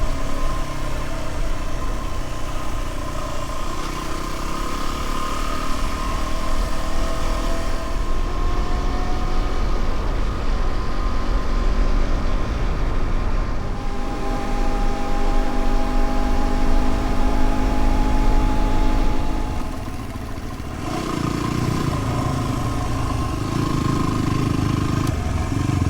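Dual-sport dirt bike engine running under way, its pitch slowly rising and falling with the throttle, louder from about midway, then easing off briefly about twenty seconds in.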